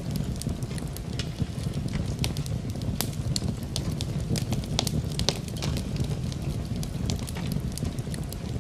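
Wood fire crackling in a fireplace: frequent irregular sharp pops and snaps over a low steady rumble of flames, with an even hiss of rain mixed in.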